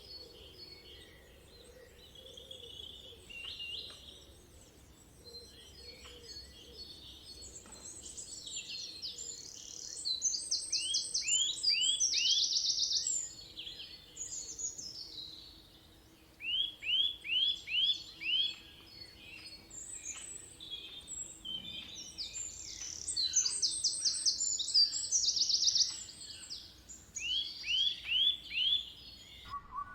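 Several birds calling and singing over one another, with rapid high trills and two runs of about five quick down-slurred whistled notes. The bird chorus cuts off abruptly near the end.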